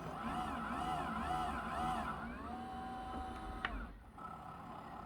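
Roomba S9+ robot vacuum's drive wheels spinning freely on carpet, their motors whining with a pitch that rises and falls a couple of times a second, then holds steady: the wheels have lost traction and the robot is stuck. A sharp click about three and a half seconds in.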